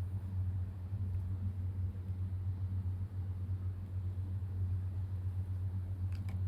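A steady low hum, with a couple of faint light clicks near the end.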